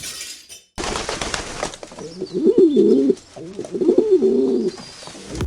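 Pigeon cooing: two low, warbling coo phrases, the first about two seconds in and the second just after it, over a faint steady hiss.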